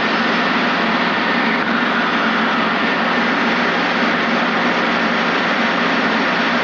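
Steady cabin noise of a Robinson R22 helicopter in cruise flight: engine and rotor running at a constant pitch with a steady low hum under a broad rushing noise.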